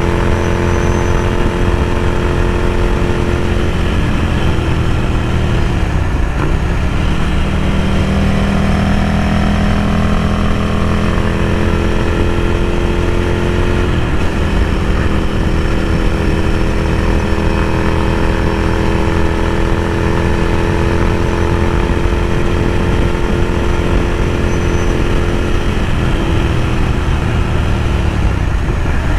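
Ducati Scrambler Café Racer's L-twin engine through a Vance & Hines slip-on exhaust while riding, heard inside the rider's helmet. The engine note drops about four to six seconds in as the bike slows, climbs back, holds a steady cruise, then drops again near the end.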